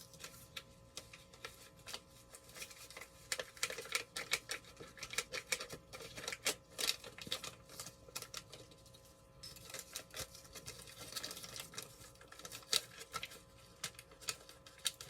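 Crinkly rustling and quick irregular clicks from a pot roast seasoning packet being handled and its seasoning shaken out, with a denser patch of rustling about two-thirds of the way in.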